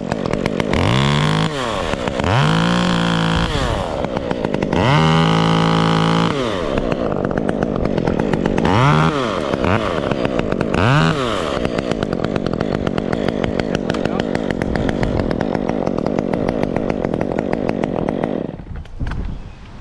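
Two-stroke chainsaw idling and revved up five times, each rev rising to full throttle and falling back, the third held for a couple of seconds. It then runs steadily and cuts off near the end.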